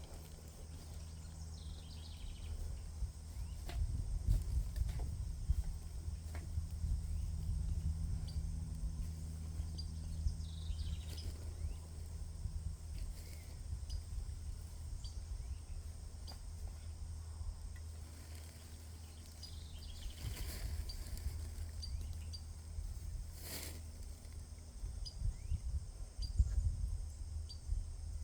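A bird giving short, high, hiccup-like pips over and over, one every second or so, with a few longer chirps among them, over a steady deep rumble.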